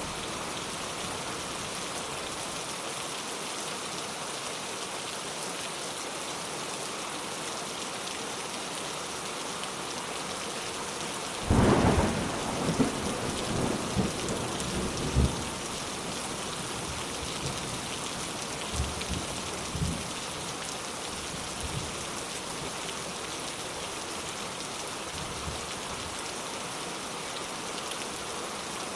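Steady rain falling, with a roll of thunder about a third of the way in that rumbles for a few seconds and dies away, followed by a few fainter low rumbles.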